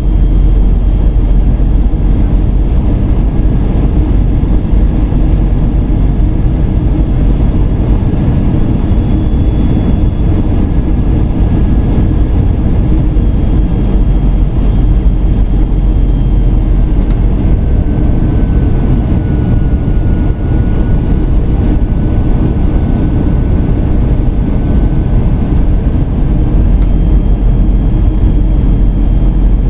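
Airbus A320 cabin noise: a loud, steady rush of airflow and jet engine noise, with faint thin whining tones above it.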